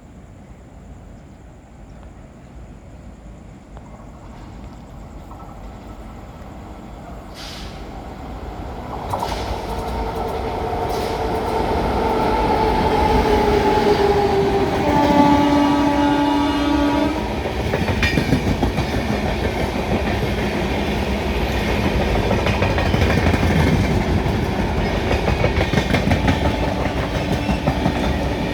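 Indian Railways express train approaching and running through a halt without stopping: a rumble building up, then a long horn blast about nine seconds in that drifts down in pitch, and a second, shorter steady horn blast about fifteen seconds in. The coaches then clatter past over the rail joints.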